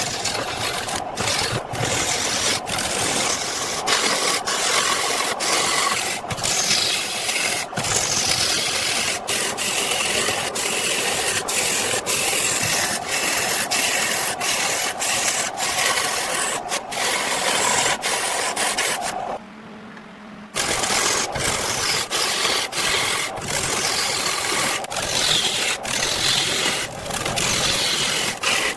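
A log being shaped with a rasping, scraping tool: dense abrasive scraping broken by many short strokes. It pauses for about a second near the two-thirds mark.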